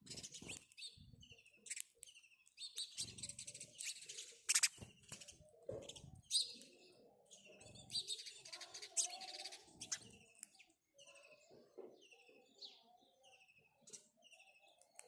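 Several house sparrows chirping, short repeated chirps overlapping into a dense chatter in the middle and thinning out to scattered single chirps near the end.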